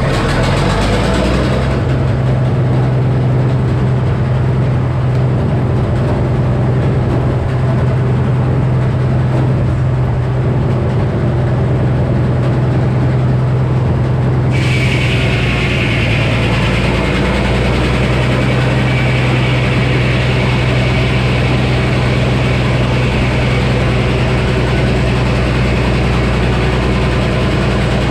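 A Frick sawmill's engine and 48-inch circular saw run steadily with a loud, low hum. About halfway through, a harsher, higher sound joins and stays: the blade cutting into the poplar log.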